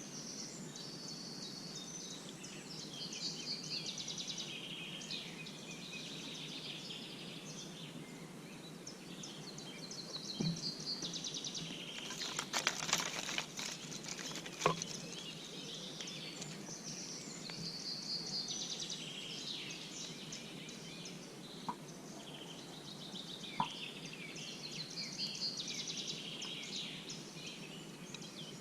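Songbirds chirping and singing throughout over a steady background hum, with a short cluster of sharp clicks and a single knock about halfway through.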